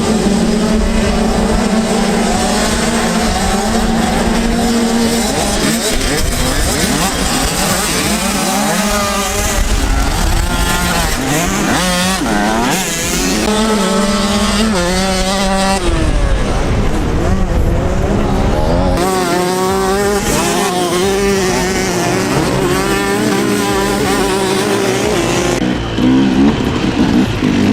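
Off-road vehicle engines revving, their pitch rising and falling again and again as the throttle is worked.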